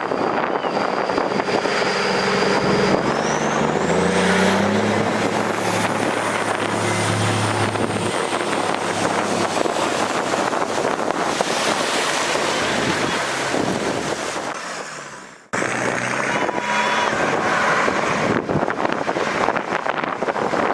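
A vehicle engine running as it drives through floodwater, rising in pitch a few seconds in, under heavy wind noise on the microphone. The sound cuts out suddenly about fifteen seconds in and picks up again.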